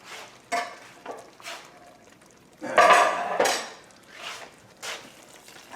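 A metal utensil scraping and clinking against a cooking pot in a string of short strokes, the loudest and longest about three seconds in.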